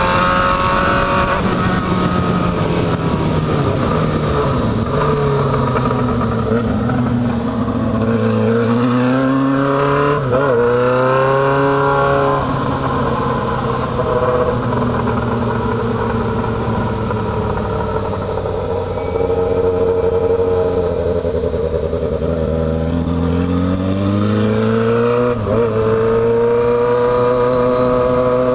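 Yamaha XJ6 motorcycle's inline-four engine running under way, easing off over the first several seconds and then rising in pitch as it accelerates about ten seconds in. It holds a steady cruise, dips, and climbs again as it pulls away near the end.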